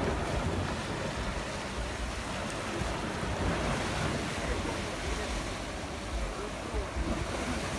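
Sea waves washing steadily onto the shore, with wind buffeting the microphone in a low rumble.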